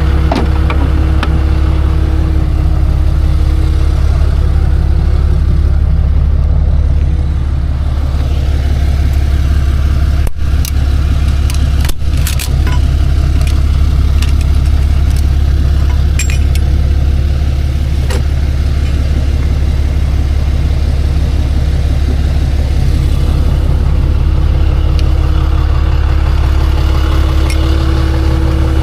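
Tow truck engine and road noise heard from inside the moving truck: a loud, steady low drone, with two sharp knocks near the middle.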